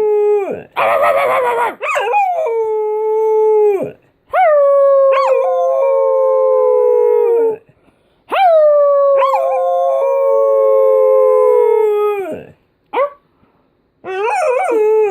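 Pet dog howling: about four long howls, each held on a steady pitch for a few seconds and then dropping away at the end, with short breaks between them. The dog is howling on cue after being prompted with barks.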